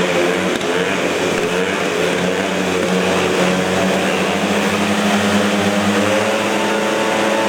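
Speedway motorcycles' 500 cc single-cylinder methanol engines running during a heat. The engine note is steady for several seconds, then its pitch rises near the end.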